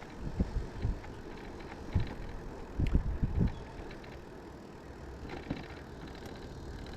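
Riding noise from a Riese & Muller Roadster e-bike under way: a steady rush with irregular low thumps, such as wind buffeting and bumps from the path.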